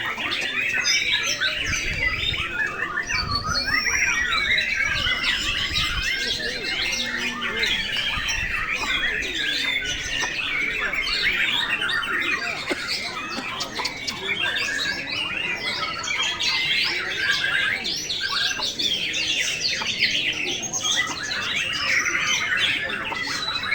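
Many white-rumped shamas (murai batu) singing at once in a contest, a dense, continuous chorus of overlapping whistles and chattering calls.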